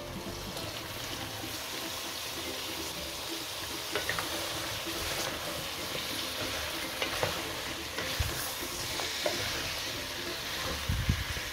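Lamb and freshly added cauliflower florets sizzling steadily in hot oil in a metal pan while a wooden spoon stirs and scrapes through them, with scattered clicks and a few low knocks near the end.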